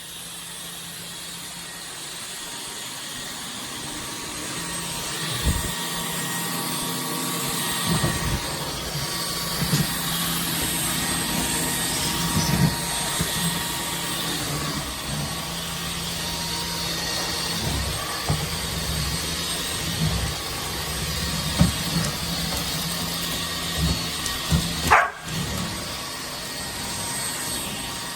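Iirios cordless stick vacuum running steadily with a high, even whir, with short sharp sounds breaking in now and then.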